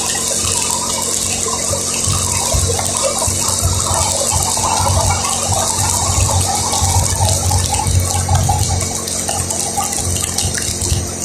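Steady watery hiss of a vehicle travelling on a rain-wet road, tyres on water and rain, with a low rumble underneath.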